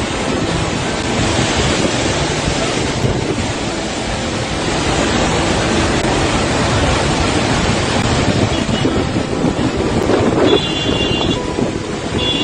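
Floodwater rushing past in a loud, steady wash of noise.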